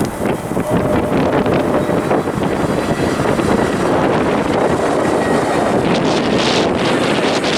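Wind buffeting the camera microphone in a steady, loud rush.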